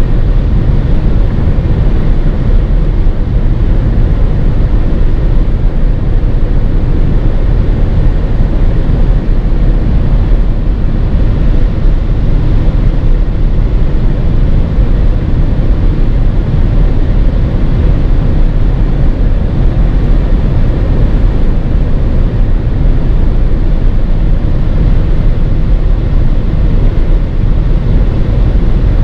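Steady low rumble of tyre and wind noise heard inside a 2016 VW Passat's cabin while driving at autobahn speed.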